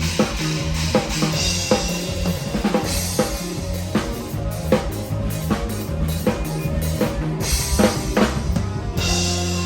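Drum kit played in an up-tempo band medley, with steady regular kick and snare strokes and cymbals over a sustained bass line.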